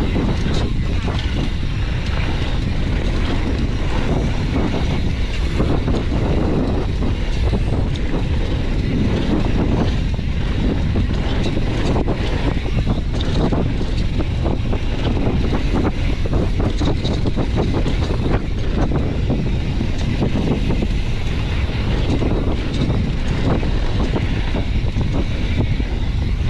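Wind buffeting the microphone: a loud, steady low rumble with a constant crackle through it.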